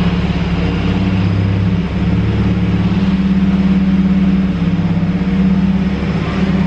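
Scion FR-S's flat-four engine idling steadily.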